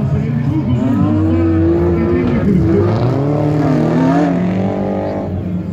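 Off-road race vehicles' engines revving, the pitch rising and falling over a steady lower engine drone.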